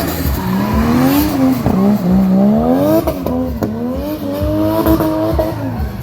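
A performance car's engine revving hard, its pitch climbing and dropping several times, with tyres squealing as the car slides through a drift or stunt run.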